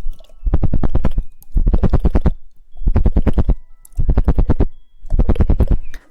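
Rapid tongue clicking close to the microphone in the 'woodpecker' ASMR style: five quick rattling bursts, each under a second long, with short pauses between.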